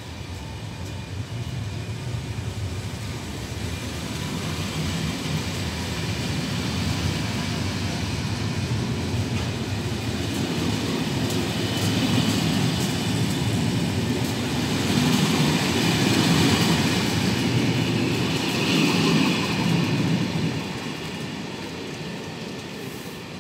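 Corail Intercités passenger coaches rolling past on the rails as the train pulls out of the station and gathers speed. The wheel and rail noise grows steadily louder, then drops away about twenty seconds in as the last coach goes by.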